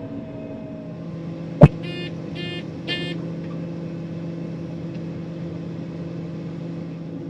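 John Deere 9500 combine running steadily, heard from inside the cab. About a second and a half in there is a sharp, loud click, followed by three quick electronic beeps about half a second apart.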